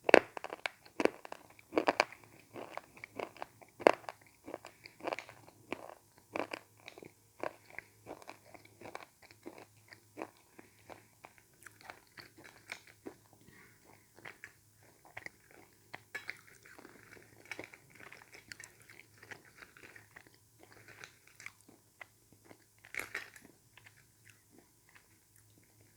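Close-miked crunching and chewing of slate pencil pieces: a fast string of crisp crunches, loudest and densest in the first half, thinning into softer chewing near the end.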